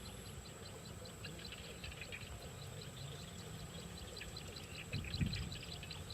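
Steady, rhythmic high-pitched animal chirping, about six short chirps a second, with a low thump about five seconds in.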